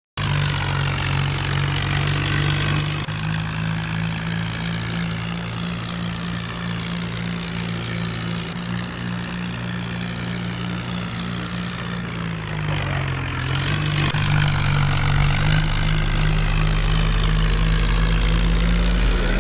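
Tractor engine running steadily, its pitch dipping briefly about twelve seconds in, then running louder for the last few seconds.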